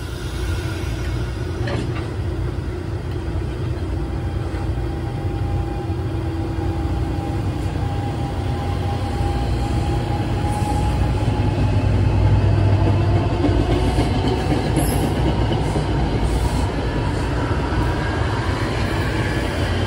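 NJ Transit commuter train of stainless-steel cars running past on the far track: a steady rumble of wheels on rail that grows louder toward the middle. A thin whine rises slowly in pitch along with it.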